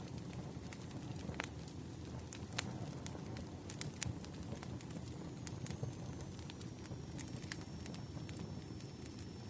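Crackling wood fire: irregular sharp pops and snaps of burning logs over a steady low rushing of the flames.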